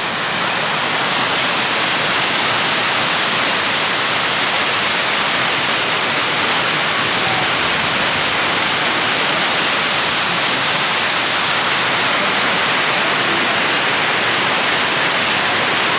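Loud, steady rush of white water, as from a waterfall or fast stream in spate, an even unbroken roar with no beat or pauses.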